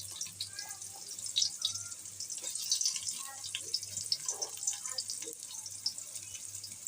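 Chopped onion and chili sizzling in hot oil in a cooking pot, a steady crackle of many small pops and hiss. A faint low hum runs underneath.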